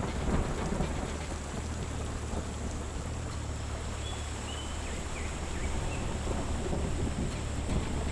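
Heavy rain falling steadily, with a low continuous rumble of thunder underneath.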